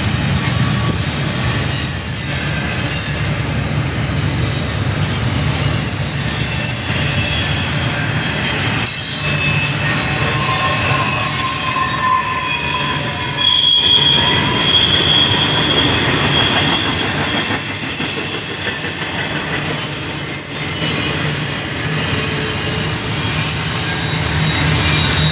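Double-stack intermodal container train rolling past: a steady rumble of the well cars on the rails, with high wheel squeals that come and go, strongest around halfway through.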